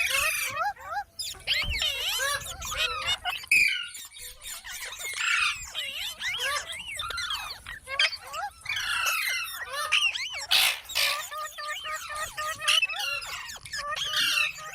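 Parrots chattering without pause in rapid, overlapping squeaky chirps that swoop up and down in pitch. There is a short noisy rush about ten and a half seconds in.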